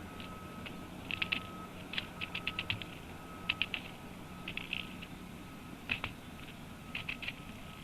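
Grey-headed woodpecker making short bursts of rapid, dry taps, three to six at a time, about once a second.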